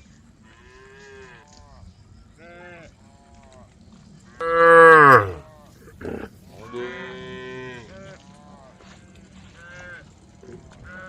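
Several cows mooing one after another, calling to the herd, their calls sometimes overlapping. The loudest is one long moo about four and a half seconds in that falls in pitch.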